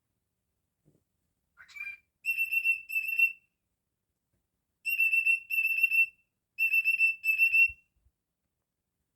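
Cockatiel whistling: a short rising chirp, then three pairs of steady, high whistled notes, all at the same pitch, with short gaps between the pairs.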